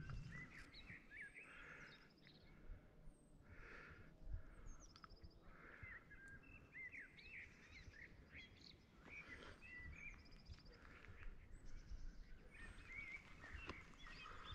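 Faint birdsong: several small birds chirping and trilling on and off, over a faint low rumble.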